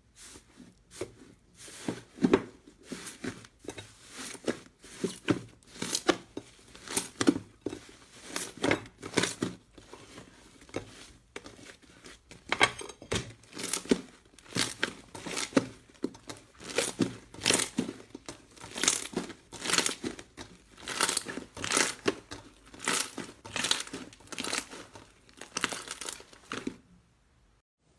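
Slime being pressed and worked by hand, making a run of short, irregular noisy sounds, several a second. The sounds stop about a second before the end.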